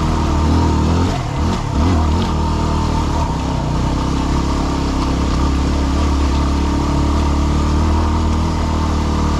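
Yamaha WR250R's single-cylinder four-stroke engine running as the dirt bike climbs a rocky trail; the throttle eases off and picks up again between one and two seconds in, then the engine holds a steady note.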